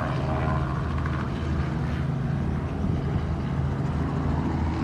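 Helicopter running steadily, a low droning hum with several even pitches.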